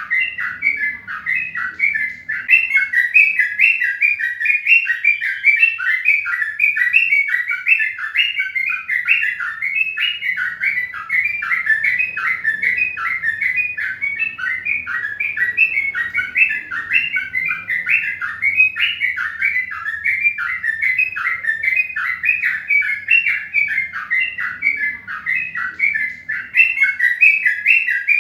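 Bird chirping rapidly and continuously, several short chirps a second.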